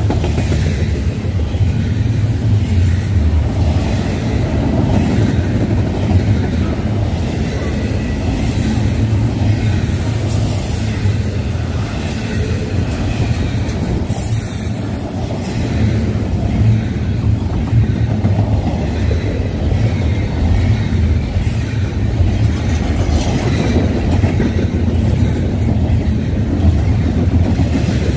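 Double-stack intermodal freight train's well cars rolling past close by: a steady, loud rumble and clatter of steel wheels on rail, with a couple of brief high squeals near the middle.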